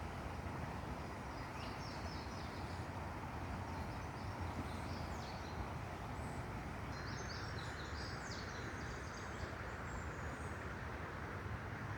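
Outdoor ambience with a steady low rumble and hiss, and small birds chirping several times: short, quick high-pitched phrases.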